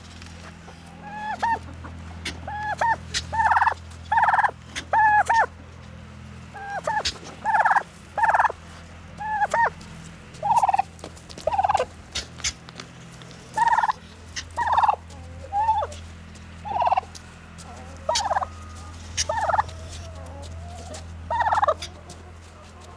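Domestic turkey gobbling over and over, a short call roughly every second, some of them in quick pairs, over a steady low hum.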